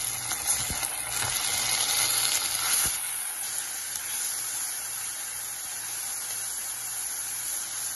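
Onions, curry leaves and ginger-garlic paste sizzling in hot oil in an aluminium pressure cooker as they are stirred with a wooden spoon. The sizzle is a little louder for the first few seconds, then settles to a steady hiss.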